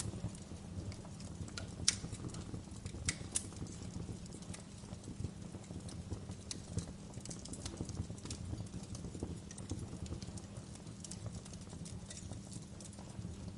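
Wood fire crackling in a fireplace: a steady low rumble of flames with irregular sharp pops and snaps, a few louder ones about two and three seconds in.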